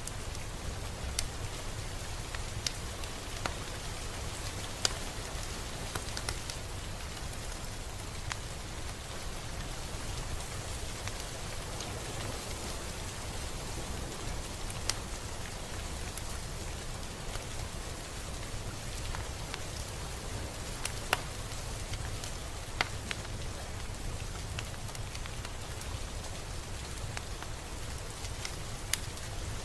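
Steady rain falling, with occasional louder single drops ticking sharply close by.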